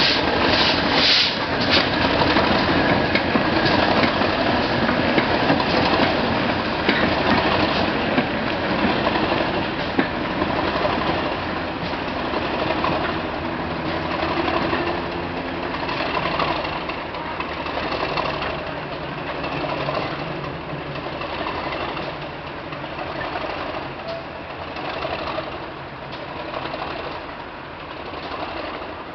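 English Electric Class 37 diesel and GWR Manor-class 4-6-0 steam locomotive pulling a short train slowly past and away, with a regular rhythmic beat from the moving train. The sound grows steadily fainter as it recedes.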